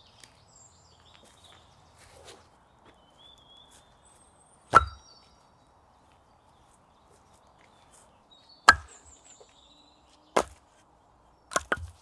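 Firewood being chopped: five sharp, irregular chops, single strikes about 5, 9 and 10.5 seconds in, then two in quick succession near the end. Faint bird chirps between the strikes.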